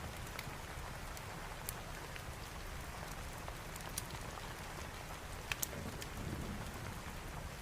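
Steady rain with a few scattered sharp clicks or crackles, the loudest pair about five and a half seconds in.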